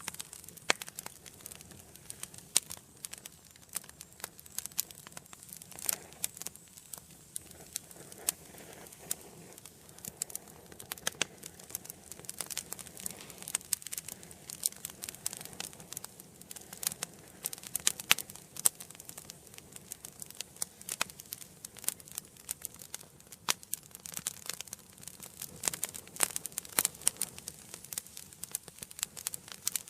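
Wood fire burning in an indoor fireplace, crackling with many sharp irregular pops over a soft steady hiss of the flames.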